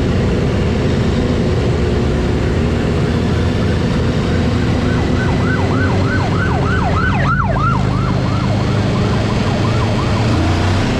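A police siren in rapid yelp mode, about three sweeps a second, swells in about five seconds in, is loudest a couple of seconds later, then fades, over a steady loud drone of motorcycle engines and rushing noise.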